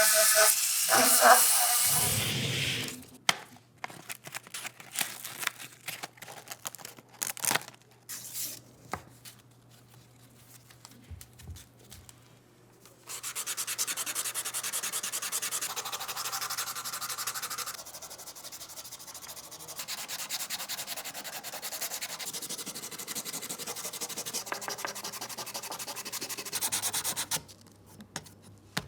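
Abrasive rubbing and sanding on a pistol part. A powered tool runs briefly at the start and stops, then come scattered scrapes and clicks, then a steady rubbing from about halfway through that stops shortly before the end.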